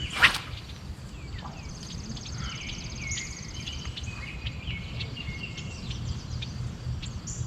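Several birds chirping and calling over a steady low outdoor rumble, with a buzzy trill around two to four seconds in. A brief sharp noise comes just after the start.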